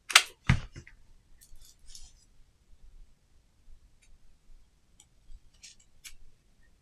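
Hot glue gun and craft pieces being handled: a sharp click and a knock in the first second, then scattered soft clicks and short scrapes.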